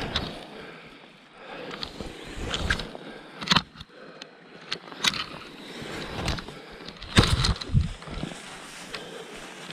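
Paddling a packraft: irregular splashes, knocks and scrapes of paddle strokes, with a few sharp knocks about a third and halfway in and a cluster of them near the end.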